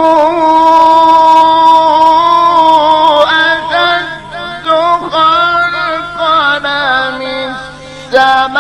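A male Quran reciter in the melodic mujawwad style, drawing out long held notes at a high pitch with ornamental turns. The voice drops away near the end and comes back strongly on a new phrase.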